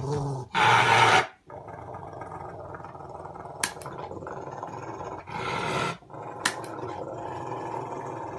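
A dog growling continuously, with two louder, harsher outbursts: one about a second in and one around five and a half seconds.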